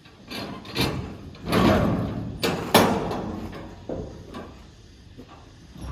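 A series of heavy bangs and noisy crashes. The loudest come about one and a half to three seconds in, followed by a few smaller knocks.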